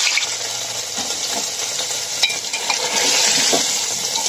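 Cubes of paneer sizzling loudly as they fry in hot oil, the water in the paneer cooking off. A metal spoon stirs them, clicking against the pot a few times.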